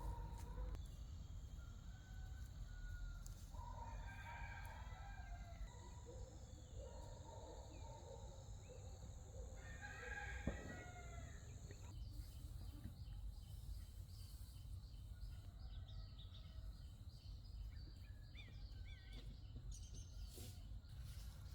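Rooster crowing faintly, twice, about four seconds in and again about ten seconds in, with small birds chirping in the second half.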